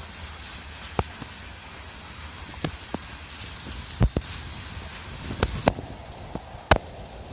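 Pouring rain hissing steadily, with irregular sharp taps of drops striking close to the microphone. The hiss thins out about six seconds in.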